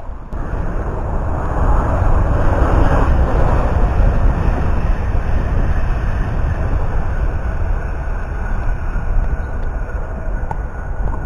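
A train running along the nearby railway line, a steady rumble that swells about two seconds in and holds.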